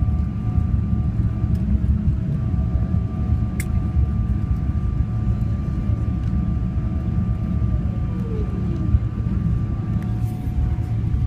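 Boeing 777-300ER jet engines and airframe running with a steady low rumble and two steady whining tones. About eight seconds in, one tone glides downward.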